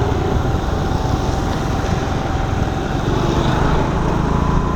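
Scooter engine running under steady wind and road noise, its pitch rising slightly about three seconds in.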